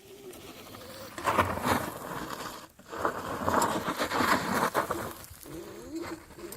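Braaap 60-volt electric motorcycle's motor whining, its pitch gliding up and down as the bike speeds up and slows. Two loud stretches of rough rushing noise come between the whines.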